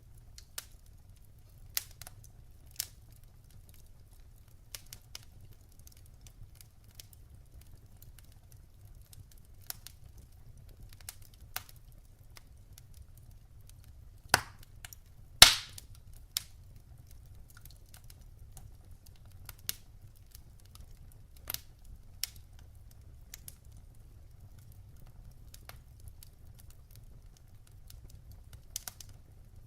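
Wood fire crackling in a fireplace: scattered sharp pops and snaps from the burning logs, two louder pops close together about halfway through, over a faint low rumble of the flames.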